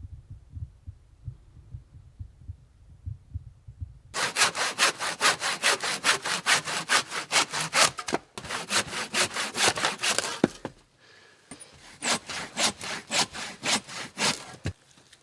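Hand saw cutting through wood with quick back-and-forth strokes, about three a second. The sawing starts about four seconds in after some soft low thuds, stops for about a second near the middle, then resumes and ends shortly before the close.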